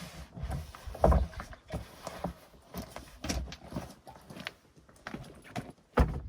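Irregular knocks and clunks of handling work, with a louder thump about a second in and another near the end.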